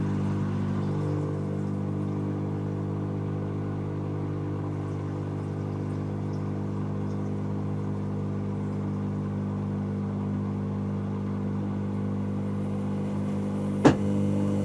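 Dyson Contrarotator CR01 washing machine running, a steady motor hum with several even tones. One sharp click sounds near the end.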